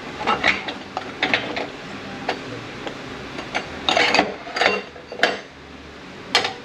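Steel and friction clutch plates of an 8L90 automatic transmission's clutch pack clinking and clacking against each other and the bench as they are handled and lifted out: a string of about a dozen sharp metal clicks at uneven intervals, loudest about four and five seconds in and again near the end.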